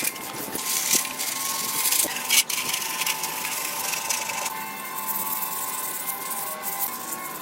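Steady rubbing and scraping of hand tool work on a surface, breaking off briefly about two and a half seconds in.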